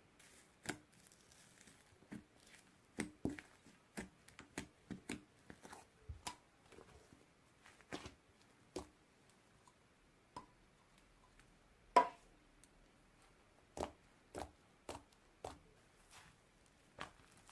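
Slime being handled and pressed: a run of irregular sticky clicks and pops, the loudest about two-thirds of the way through.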